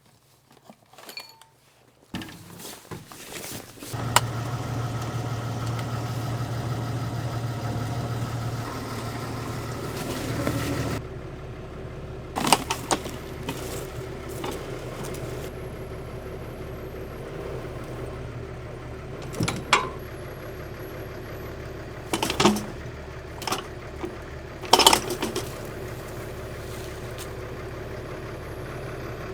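A vehicle engine starts about two seconds in and runs steadily, at a higher speed first, then settling lower after about eleven seconds. Several sharp knocks or clatters sound over the running engine in the second half.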